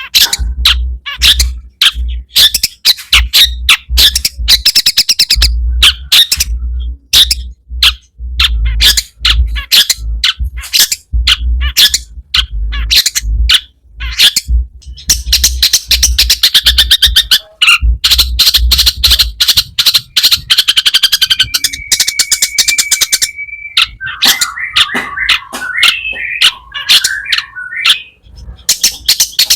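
Long-tailed shrike (cendet) singing a loud, rapid chattering song of harsh clicking and buzzy notes, packed with mimicry. About two-thirds of the way through it holds one steady whistle, then breaks into lower warbling notes.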